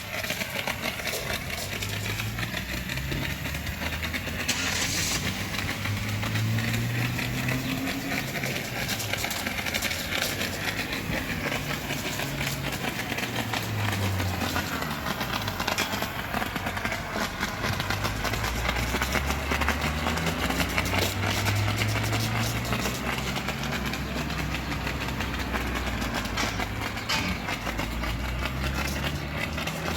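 A low machine hum that slowly rises and falls in pitch, under a steady hiss of spraying water.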